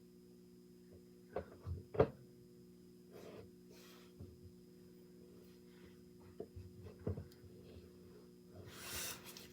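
A few light knocks and rubbing, the loudest knock about two seconds in, and a rustling swish near the end, over a steady electrical hum.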